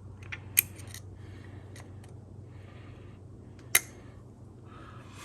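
Metal transmission parts being handled: light scraping and scattered clicks, with two sharp metallic clicks, one about half a second in and a louder one near four seconds in. A steady low hum runs underneath.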